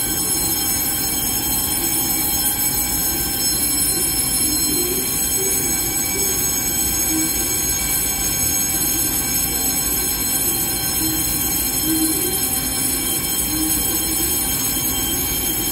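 Steady rumble and hum of electric trains at an underground station platform, with several faint high whines held steady throughout.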